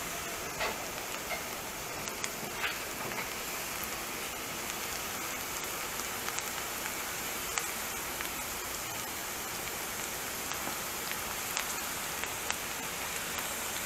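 Chopped onion and garlic sizzling steadily in melted butter in a frying pan, with a few light taps and scrapes of a spatula stirring them.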